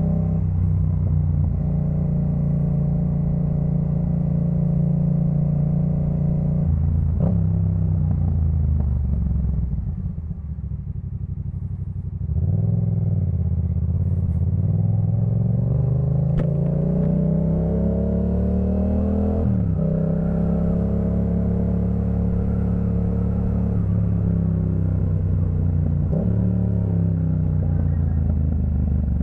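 Yamaha MT-07's parallel-twin engine through a Jeskap K4 full exhaust while riding. It holds a steady note, then the note drops and falls away and goes quieter for a couple of seconds as the throttle is eased off. From about twelve seconds in it pulls with a long rising note, drops sharply at about twenty seconds as it shifts up, and shifts up once more near the end.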